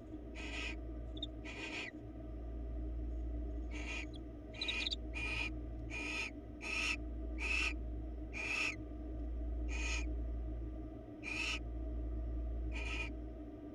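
Barn owl giving a run of short, raspy hissing calls, about a dozen repeated less than a second apart with a few longer gaps, over the steady low electrical hum of the nest-box camera microphone.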